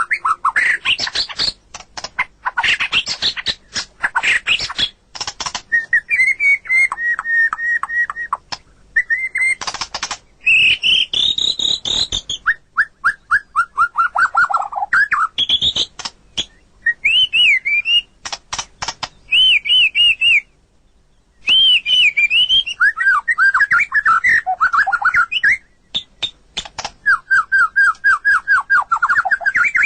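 White-rumped shama singing a varied song: loud whistled phrases, fast series of falling notes and dry rattling clicks, with a brief pause about two-thirds of the way through.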